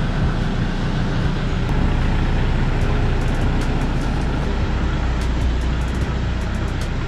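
Pickup truck engine running steadily, a low even hum, as the truck is reversed out and driven onto the road.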